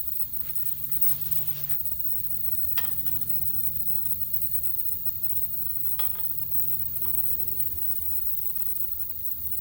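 Steady low hum with a faint hiss, broken by a few light clicks about three, six and seven seconds in.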